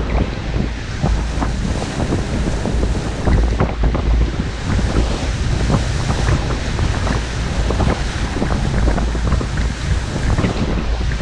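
Lake waves washing and splashing on the shore in strong wind, with a steady low rumble of wind buffeting the microphone.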